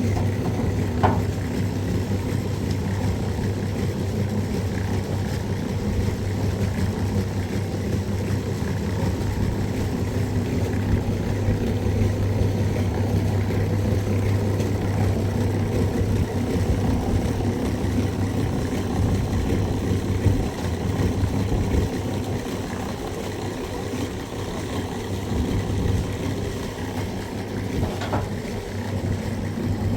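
An engine running steadily at a constant speed with a low, even hum.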